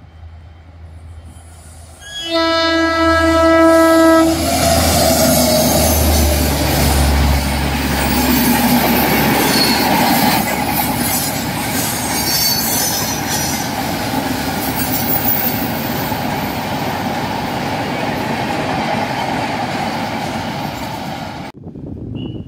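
A train horn sounds one steady blast of about two seconds, then a passenger train passes close by, loud, its wheels clattering over the rail joints. The sound cuts off abruptly near the end.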